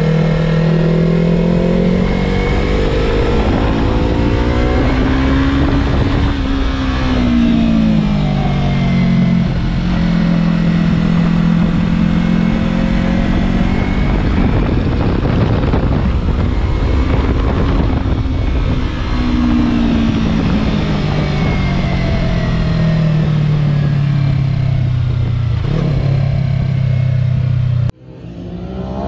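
Yamaha R3's 321 cc parallel-twin engine at speed on a race track, its pitch climbing under acceleration and falling back as it slows for corners, several times over, with heavy wind rush on the onboard microphone. Near the end the sound cuts out abruptly and a motorcycle engine rises again, heard from trackside.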